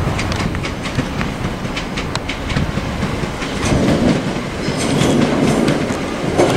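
Southern Class 377 electric multiple unit approaching, its wheels clicking over rail joints and points. Its rumble grows louder about halfway through.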